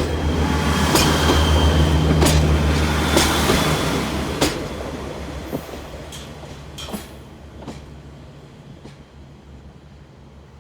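A train on the line runs close by and moves away. Its engine gives a steady low hum, and sharp clicks from the wheels going over rail joints come every second or so. It is loudest in the first few seconds, then fades away steadily.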